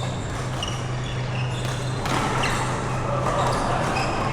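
Badminton game sounds in a sports hall: short high squeaks of shoes on the court floor and light knocks over a steady low hum, with the background noise growing louder about two seconds in.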